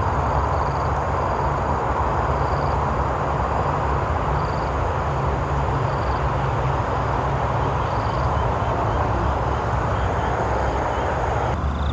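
Steady outdoor rumble and hiss with no pauses, with faint short high chirps recurring every second or so.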